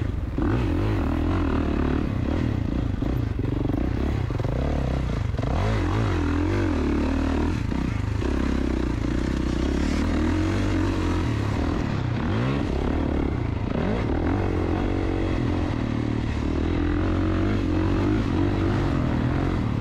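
KTM two-stroke dirt bike engine being ridden hard, its pitch rising and falling over and over as the throttle is opened and closed through the corners and ruts.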